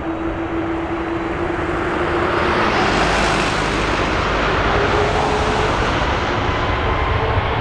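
Jet airliner engines at takeoff power, a steady roar that swells about three seconds in and stays loud, with faint whining tones through it.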